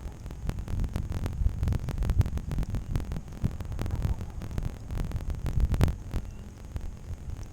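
Low rumble with many small, irregular knocks and clicks, like wind and handling noise on a camera's microphone.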